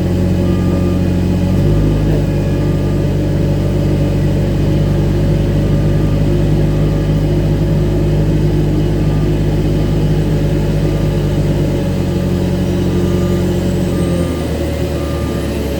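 Aircraft pushback tug's diesel engine running steadily under load, its pitch shifting slightly twice, with a short electronic beep repeating about once a second. A faint high whine rises steadily in pitch over the last few seconds.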